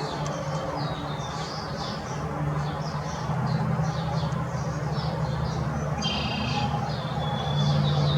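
Small birds chirping, many short high calls overlapping, over a low steady hum that grows a little louder about three seconds in.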